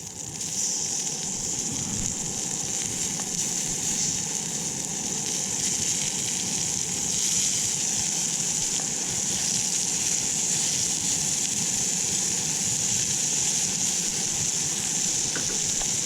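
Food frying, a steady high sizzle that holds level throughout.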